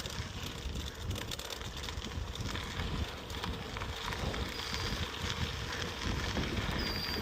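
A bicycle rolling over a rough dirt trail: a steady rumble of tyres with many small clicks and rattles, and wind buffeting the microphone.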